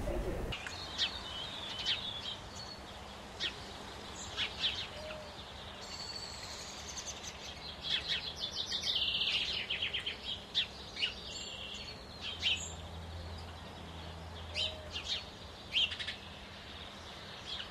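Small birds chirping and singing: scattered short high calls, with a quick run of rapid repeated notes about eight seconds in.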